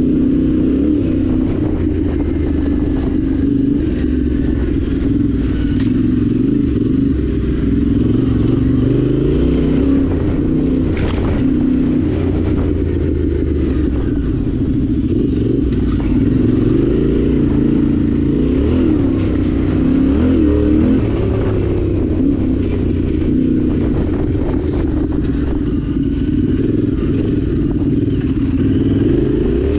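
Yamaha Ténéré 700's parallel-twin engine running as the bike is ridden, its pitch rising and falling with the throttle. A few brief sharp knocks are heard over it.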